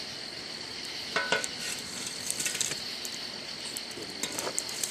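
Campfire being stirred with a metal long-handled shovel: scraping and clinking of metal against coals and the fire ring, with scattered crackles from the fire, over a steady high-pitched drone of night insects.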